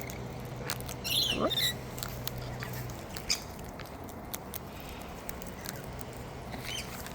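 Wild parrots perched close to the microphone, giving small scattered clicks and scratches of beaks and claws, with a short squawky call about a second in.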